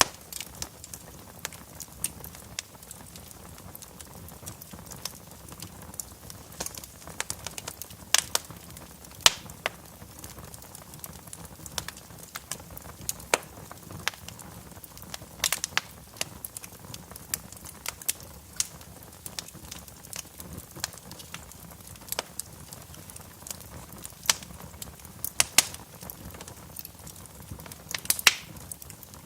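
Wood fire crackling in a fireplace: irregular sharp pops and snaps, a handful clearly louder than the rest, over a low steady rush of the flames.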